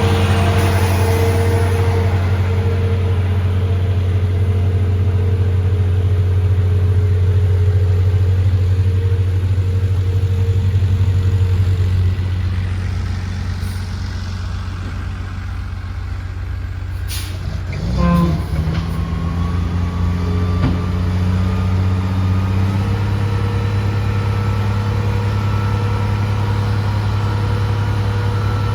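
Heavy diesel equipment engine running steadily, easing off about halfway through. A short sharp sound comes about two-thirds of the way in, and the engine then runs on at a slightly different steady pitch.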